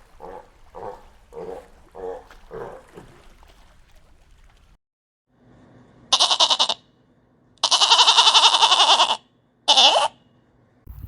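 A wild animal's run of deep grunts, about two a second, dying away; then, after a pause, three loud, harsh, buzzing calls, the middle one the longest.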